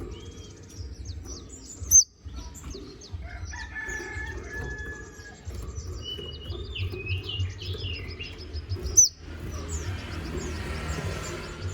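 Konin songbird singing a rapid, varied song of high chirps, sweeping notes and trills. Two sharp, loud high notes come about two seconds and nine seconds in, over a steady low background hum.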